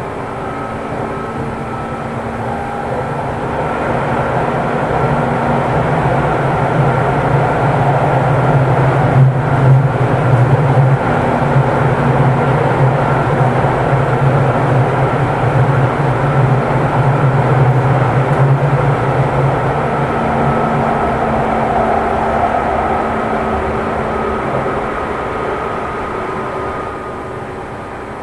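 JR 205-series electric train running at a steady speed between stations, heard inside the motor car MoHa 205-287: wheels on the rails with the hum of its externally ventilated traction motors. The noise swells through the middle and eases off toward the end.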